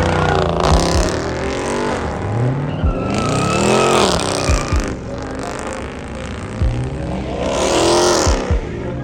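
A car engine revved hard three times, its pitch climbing and falling each time, with a hissing rush at each peak and short low thumps in between.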